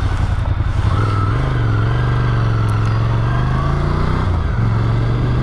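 Ducati Scrambler Desert Sled's air-cooled 803 cc L-twin engine running under way at road speed, its note climbing slowly and then dropping back about four seconds in.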